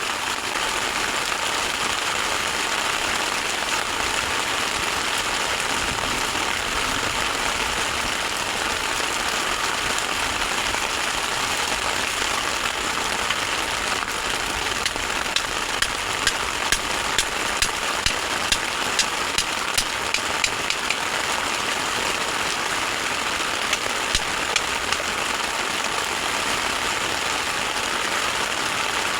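Heavy rain pouring steadily on a camp shelter, with a run of sharp taps from drops landing close by for several seconds in the middle and briefly again later.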